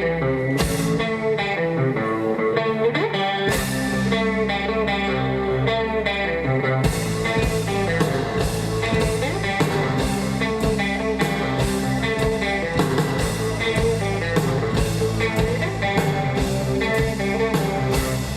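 Live rock band playing an instrumental passage, guitar to the fore over bass, with two crashes early and the full drum kit coming in about seven seconds in.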